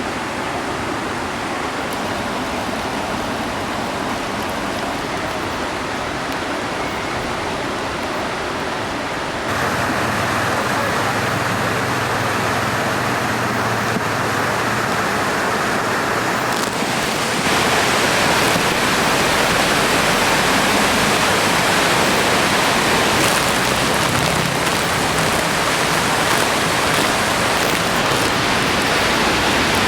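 Rushing water, a steady noisy rush, stepping up louder about ten seconds in and again a little past halfway.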